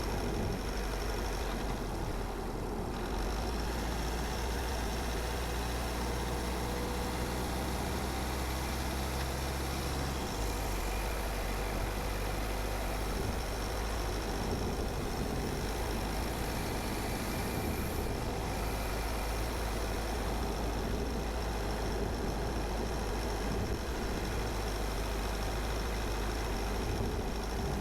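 A car driving along a road: steady engine hum and tyre and road noise, with the low engine hum changing pitch about ten seconds in.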